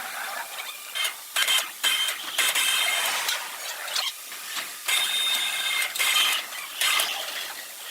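Sawmill machinery cutting wood: repeated bursts of hissing, scraping cutting noise with a faint high whine, stopping and starting every second or so.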